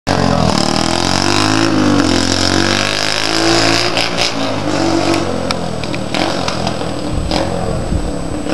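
Yamaha TTR 125 dirt bike's single-cylinder four-stroke engine revving hard through an exhaust with its baffle removed, the pitch rising and falling. About five seconds in the engine note drops back and turns rougher and weaker.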